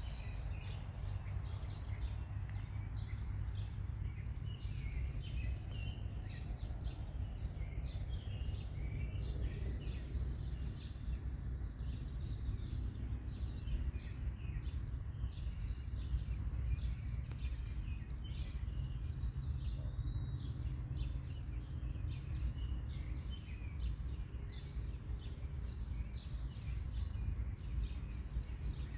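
Many small birds chirping over a steady low rumble.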